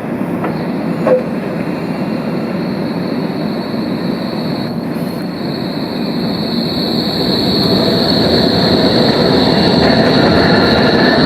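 Tram rolling along its track, a steady rumbling rail noise with a steady high-pitched whine over it. It grows louder in the second half.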